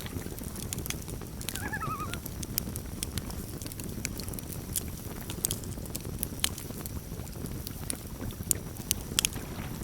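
Campfire crackling and popping over a low steady rumble, with sharp pops scattered through and the loudest ones near the end. About one and a half seconds in, a common loon gives a short wavering tremolo call.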